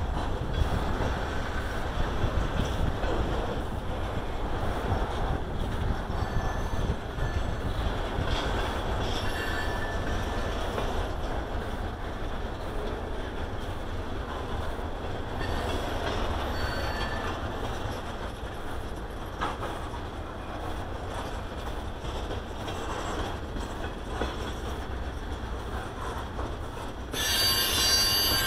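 Freight train of covered hoppers and tank cars rolling past on jointed track, with a steady low rumble from the wheels on the rails and faint squeals now and then. Near the end a louder, high-pitched metal squeal comes from the wheels.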